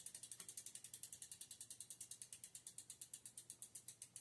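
Rear wheel of a 1995 Schwinn Ridge Searcher mountain bike coasting after the pedaling stops, its freewheel pawls clicking in a fast even run of about ten clicks a second that slows gradually as the wheel winds down.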